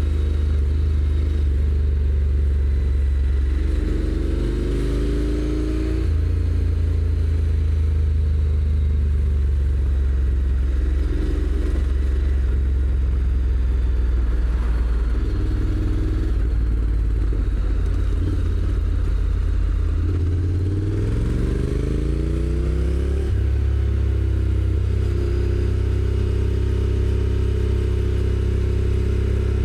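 Honda NC750X parallel-twin engine through its stock exhaust, riding along. Its pitch rises twice as it accelerates, about 4 seconds in and again around 20 seconds in, and each time drops abruptly as the dual-clutch gearbox shifts up.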